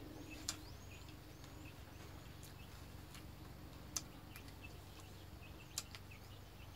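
Small birds chirping faintly over a low steady hum, with three sharp clicks standing out, about half a second in, near the middle, and near the end.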